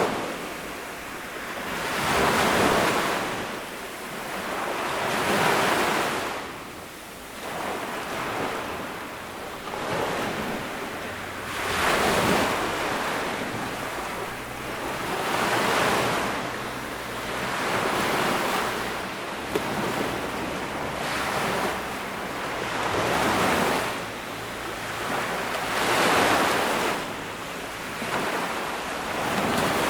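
Ocean waves breaking and washing up a beach, each swelling and falling away about every three to four seconds.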